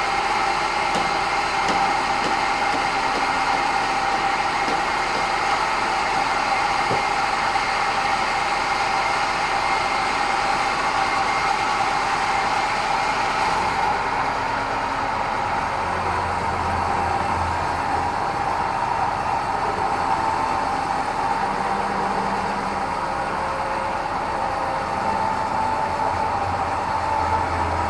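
Band sawmill running steadily with a constant high hum. About halfway through, the upper hiss drops away and a low hum comes in.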